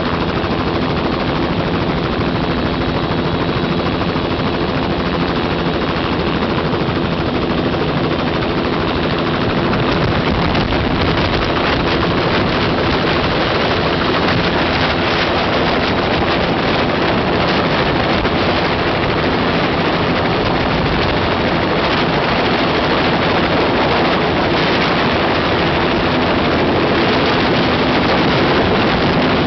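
Helicopter in flight: rapid steady chop of the main rotor over the drone of its turbine engine and gearbox, growing a little louder about a third of the way in.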